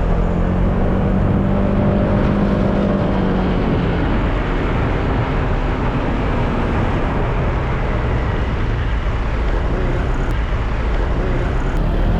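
Honda PCX 150 scooter's single-cylinder four-stroke engine running steadily under load on a steep uphill climb, heard through heavy wind rush on the helmet-mounted camera's microphone.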